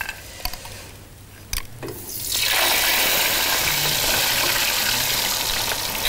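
A few light clicks, then about two seconds in a loud, steady sizzle starts suddenly as potato wedges begin frying in hot oil.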